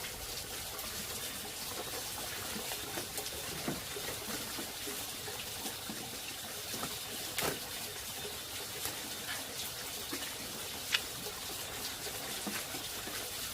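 Steady running, trickling water with scattered small clicks and knocks.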